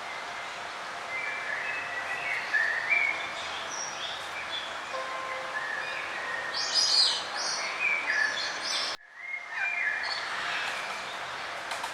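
Several songbirds singing, with short chirps and whistled phrases overlapping over a steady hiss. The sound breaks off almost to silence for a moment about nine seconds in, then the chirping resumes.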